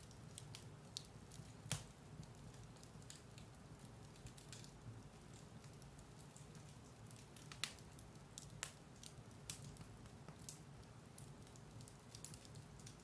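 Firewood burning in a fireplace: irregular sharp crackles and pops over a low steady hum, with the loudest pops about two seconds in and near eight seconds.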